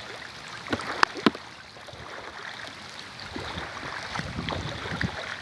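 Steady wash of rain and water noise outdoors, with two sharp clicks about a second in and irregular low bumps in the second half.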